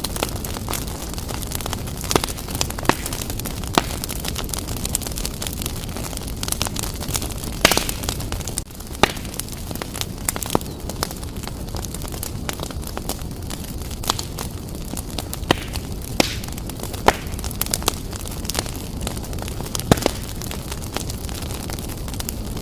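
Wood fire burning strongly in a fireplace: a steady low rush of flame with irregular sharp crackles and pops from the burning logs.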